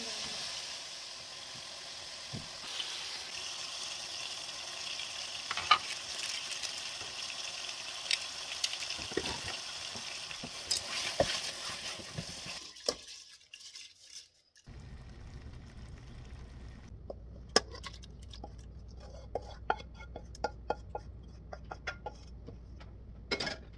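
Chicken sizzling in oil in an aluminium pot while a wooden spoon stirs it, knocking and scraping against the pot. About halfway through, the sizzling cuts off. After a short gap come scattered small clinks and knocks over a low steady hum as the pot is tipped into a rice cooker.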